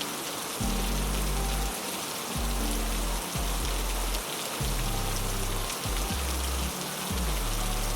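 Heavy rain falling in a steady, even hiss, with low held music notes underneath that change every second or two.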